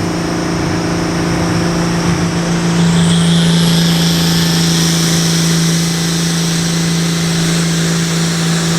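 Diesel pulling tractor engine held at full throttle under load, its note steady. A high whine rises about three seconds in and then holds.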